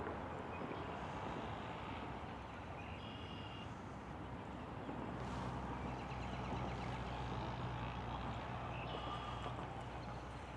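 Low, steady hum of a vehicle engine that grows stronger about halfway through, over steady outdoor background noise, with a few short, high bird chirps.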